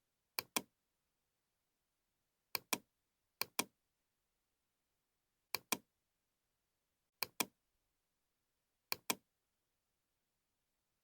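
Computer mouse double-clicking: six quick double-clicks at irregular intervals, each pair of sharp clicks close together.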